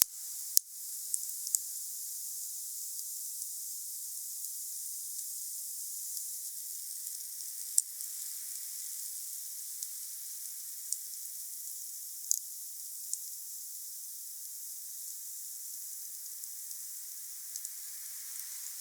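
Wood bonfire burning: a steady soft hiss with sharp crackling pops scattered through, the loudest about half a second in and near eight seconds.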